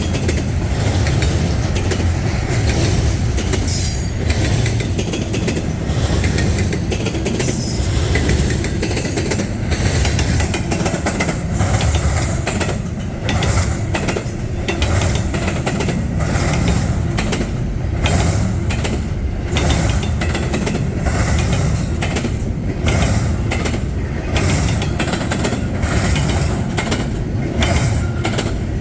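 Freight train rolling past: a steady low rumble with frequent clicks and knocks from the wheels.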